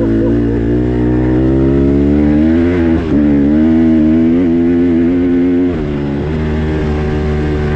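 Dirt bike engine running under throttle while riding, its pitch climbing slowly, dipping briefly about three seconds in, then dropping back near six seconds in as the revs fall.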